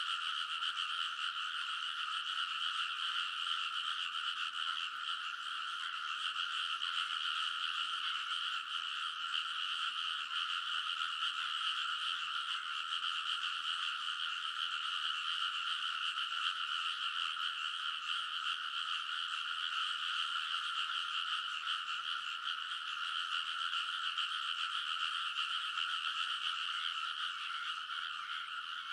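A dense chorus of many frogs calling together in a rice paddy, a steady, unbroken wall of overlapping croaks with no gaps.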